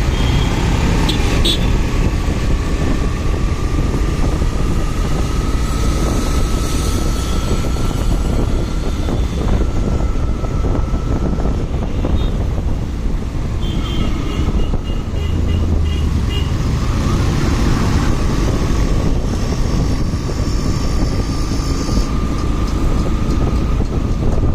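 Motorcycle riding in traffic: steady engine and road-and-wind rumble, with a thin whine that drifts slightly in pitch and a short run of quick high beeps about two-thirds of the way through.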